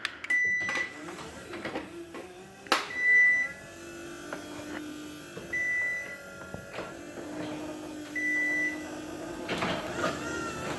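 A LiftMaster 8550 garage door opener's motor keeps running, driving the door down after its power has been unplugged, with a sharp click about three seconds in. Four short high beeps come about two and a half seconds apart, typical of the opener running on its battery backup.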